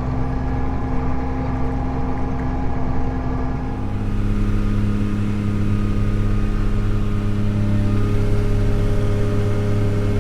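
Large farm machine's diesel engine running steadily. About four seconds in it becomes louder, with a stronger low hum.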